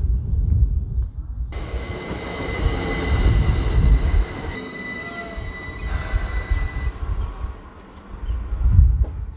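Electric multiple-unit train passing over a level crossing: a heavy rumble of wheels on the rails, with a steady high whine from about a second and a half in that fades out near the end.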